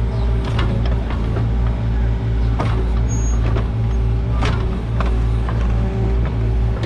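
Diesel engine running steadily, with a few sharp metallic knocks and clanks at irregular moments.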